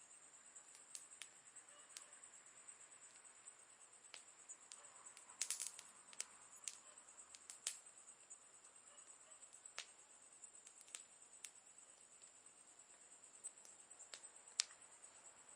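Campfire crackling faintly: sparse, irregular sharp pops and snaps, with a quick cluster of them about five and a half seconds in, over a steady faint high hiss.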